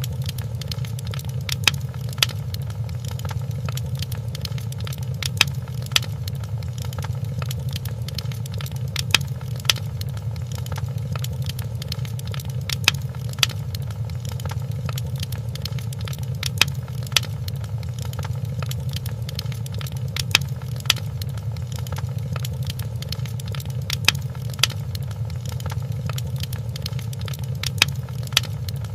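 Wood fire crackling in a fireplace: a steady low rumble with sharp pops, mostly in pairs about every four seconds.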